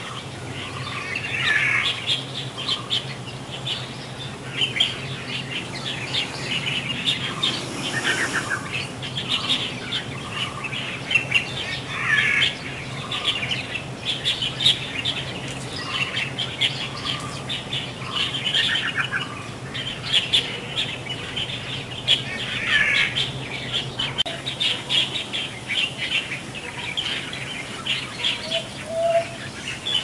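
Several small birds chirping and calling over one another without pause, with short rattling trills every few seconds.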